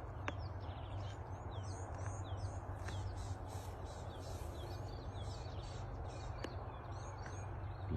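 Birds calling, many short high whistles that fall in pitch and repeat through the whole stretch, over a steady low rumble.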